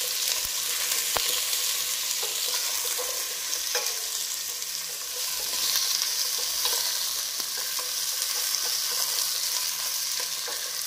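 Potatoes and carrots frying in oil in a stainless steel pot, with a steady sizzle. A wooden spatula stirs them, scraping and clicking against the pot now and then.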